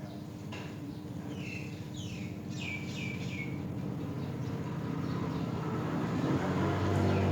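Myna chirps: short, downward-sliding calls, with a quick run of them about two to three and a half seconds in, over a low rumble that swells toward the end.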